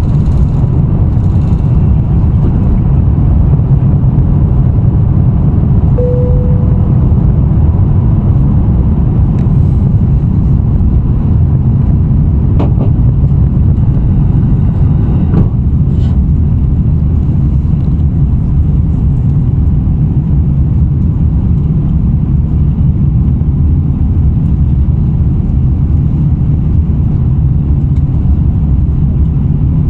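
Steady, loud low rumble of an Airbus A350-900's Rolls-Royce Trent XWB engines and airflow, heard from inside the passenger cabin during take-off and climb. A brief tone sounds about six seconds in, and a few faint clicks follow in the middle.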